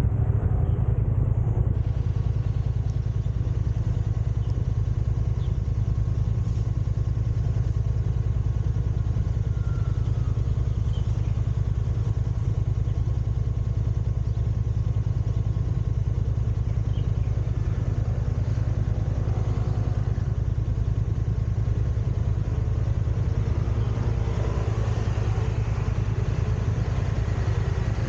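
Steady low rumble of a car driving in city traffic, engine and road noise picked up by the dashcam's microphone, with fainter sounds of other traffic rising in the last third.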